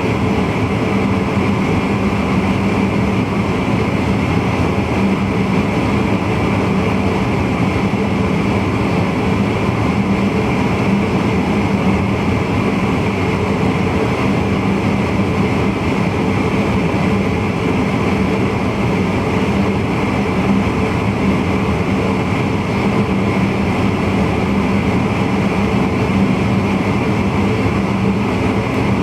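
Electric VIRM double-deck intercity train running steadily, heard from the driver's cab: an even rumble of wheels on rail with a constant hum from the traction equipment.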